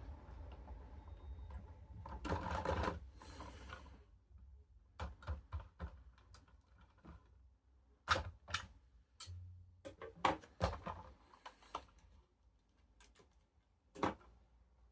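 Irregular sharp plastic clicks and light knocks, with a stretch of rustling a few seconds in, as a Lego model is handled.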